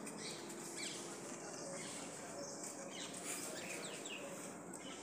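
Outdoor ambience with birds chirping now and then: several short, falling chirps over a steady background hiss.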